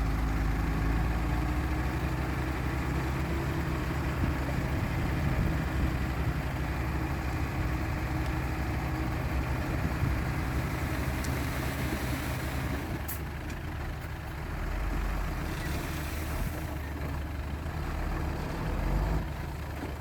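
Heavy diesel engine of an earthmoving machine running steadily at low revs. About two-thirds of the way through, the engine note drops and gets quieter, and short hissing bursts come in.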